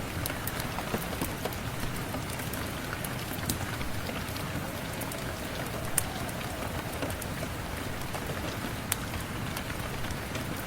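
Steady rain, an even hiss, with scattered sharp ticks; the loudest come about six and nine seconds in.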